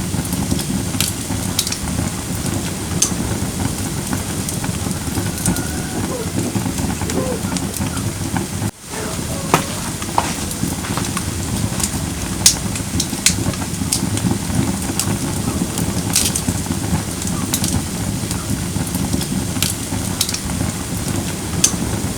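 Firewood burning in a fire bowl: a steady low rush of flame with scattered sharp pops and crackles from the logs. The sound dips out for a moment about nine seconds in.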